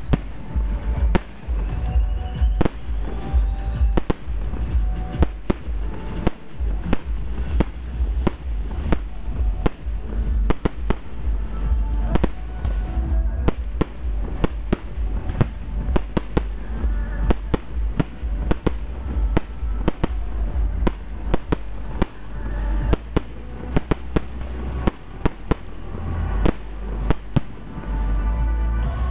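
Professional aerial fireworks shells bursting in a rapid, irregular string of sharp bangs, about one to two a second, over steady background music.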